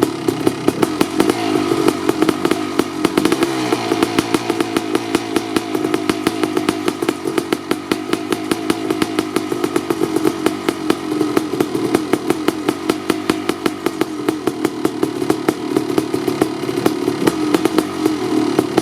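Kawasaki KX500 single-cylinder two-stroke engine warming up after a cold start, running through an FMF Gnarly expansion pipe. It holds a fast, steady stream of firing pulses with only small changes in speed.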